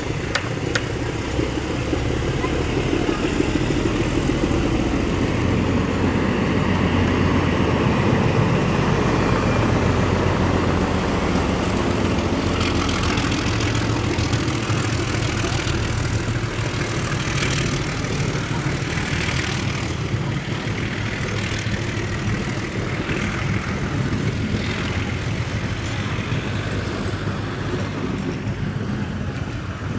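ALCO RSD-39 diesel locomotive passing close by at the head of a passenger train, its diesel engine running loud and low. About halfway through the coaches take over, rolling past with their wheels clicking over the rails.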